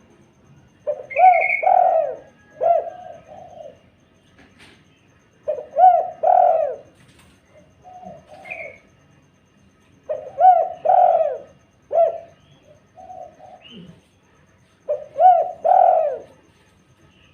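Spotted dove (tekukur) cooing. Four repeated phrases of several low, rounded coos come about every four to five seconds.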